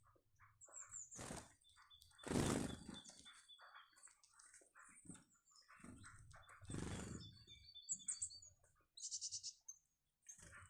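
Small wild birds chirping, with short bursts of wing flapping. The loudest burst comes about two seconds in and another near seven seconds. A fast trill sounds about nine seconds in.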